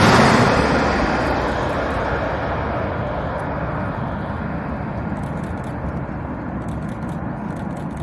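Jet airliner's engine noise fading steadily as the aircraft moves away after passing low overhead to land, the high hiss dying away first and a low rumble left.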